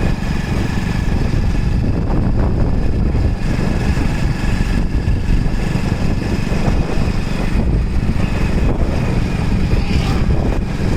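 A vehicle engine running steadily, with a dense low rumble that does not let up.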